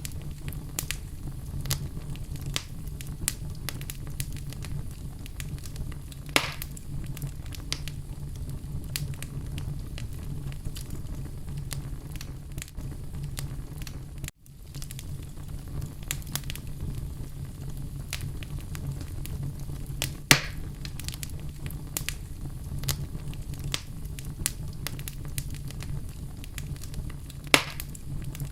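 Wood fire burning in a fireplace: a steady low rumble of flames under constant small crackles, with louder pops about six seconds in, about twenty seconds in and near the end. The sound cuts out for an instant about halfway through.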